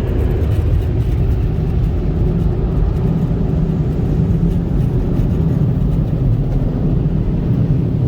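Tunnel car wash air dryers blowing, a loud steady rushing noise heard from inside the car.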